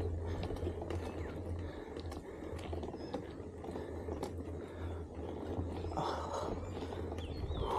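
Wind rumbling on the microphone, with scattered clicks and rattles, typical of a camera riding on a moving bicycle.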